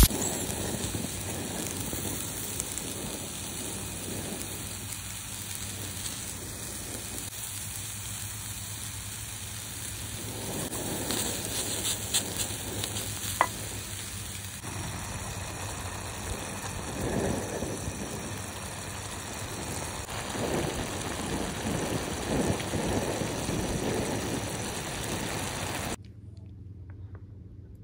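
Food frying in a pan: a steady sizzle with a few sharp clicks and swells. It stops abruptly near the end.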